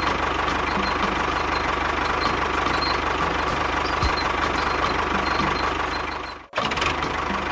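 A motor running steadily with an even low pulsing, dropping out for an instant about six and a half seconds in before running on.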